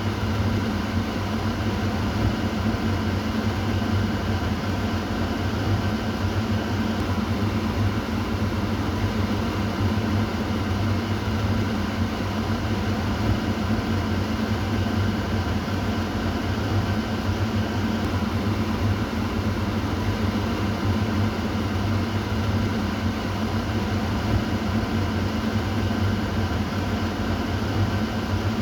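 Kitchen exhaust fan running steadily: a low hum under an even airy noise, with no change in speed or level.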